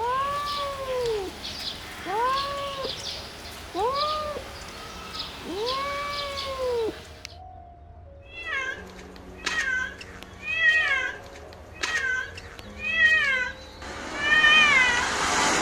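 Cat meowing: four long, drawn-out meows that rise and fall in pitch, then a quick series of shorter, higher-pitched mews.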